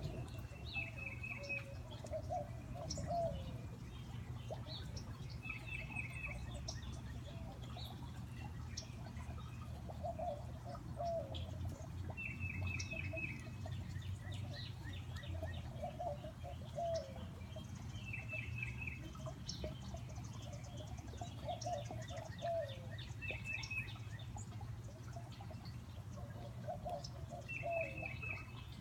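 Tufted titmouse singing a short phrase of four or five quick repeated whistled notes, about every five seconds. A second, lower-pitched bird call repeats in between, over the steady sound of a backyard fountain.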